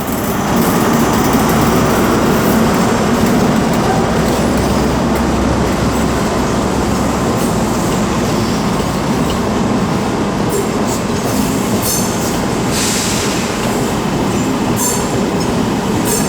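High Speed Train led by a class 43 diesel power car running into a station: steady engine and wheel noise with a low rumble in the first several seconds, and brief high wheel squeals later on.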